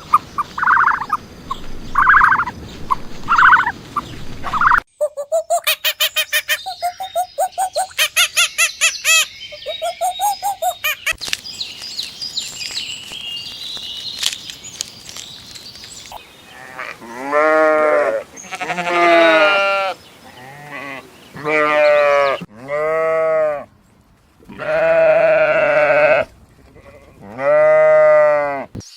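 A run of different animal calls: about five short barks in the first few seconds, then a rapid pulsed chattering call, then a series of about seven long, wavering bleats, like a goat's or sheep's, filling the second half.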